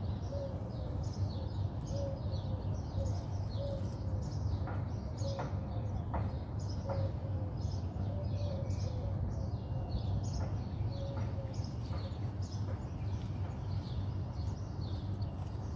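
Small birds chirping in quick, repeated high notes, with a row of short lower calls repeating until about three-quarters of the way through, over a steady low hum.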